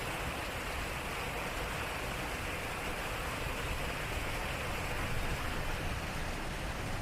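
Water flowing and splashing at a turning water wheel: a steady rushing with a low rumble underneath.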